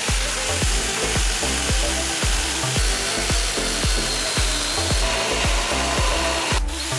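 Power tool shaping wood with a steady hiss, under background music with a steady beat; the tool noise drops out briefly near the end.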